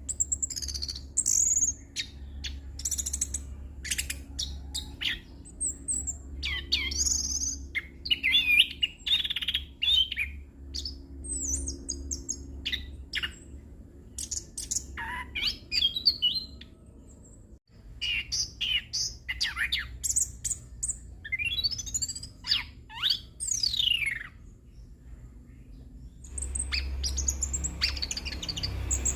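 Chestnut-capped thrush (anis kembang) singing a continuous rolling song packed with mimicked phrases: rapid clicks, short whistles and sweeping rising and falling glides, over a faint low hum.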